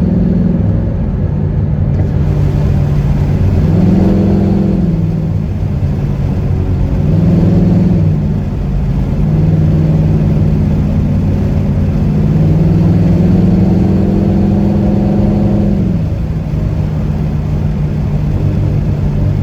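Ford Mustang GT's V8 engine through its newly fitted exhaust, revving up, holding and dropping back about four times, with the longest pull near the end.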